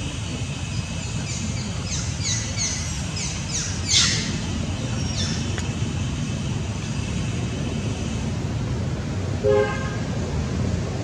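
Steady traffic rumble with a run of short, high, falling chirps and one loud shrill squeal about four seconds in; near the end a vehicle horn gives one short toot.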